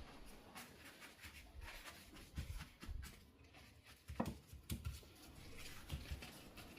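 Soft, irregular taps, light knocks and rustles of objects being handled, with the loudest knock about four seconds in.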